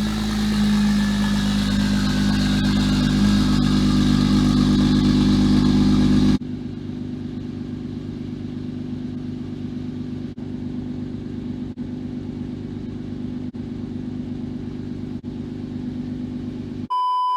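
Single-turbo BMW 335i's N54 straight-six running under way, with road and wind noise. About six seconds in, the sound cuts sharply to a quieter, steady engine hum with a few faint clicks. A short beep comes near the end.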